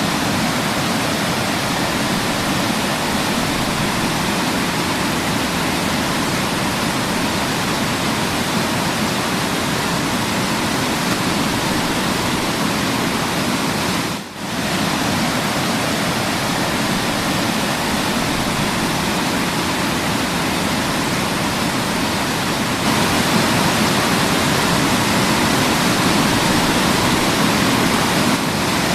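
Waterfall: water falling and rushing in a steady, dense roar of noise, dropping out briefly about halfway through and a little louder over the last several seconds.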